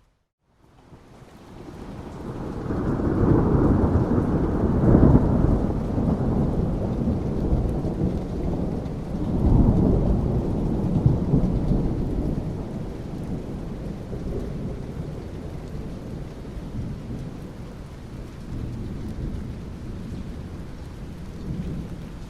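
A thunderclap rolls in and rumbles over steady rain. After a brief dropout at the start, the deep rumble swells over a few seconds, surges again about ten seconds in, then slowly dies away, leaving the rain's even hiss.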